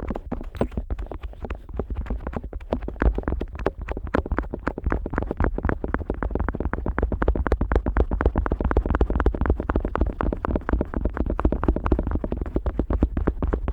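An otoscope rubbed and tapped against the rubber ear of a Neumann KU100 dummy-head microphone: a fast, unbroken run of short, dull strokes, many a second, heard right at the ear.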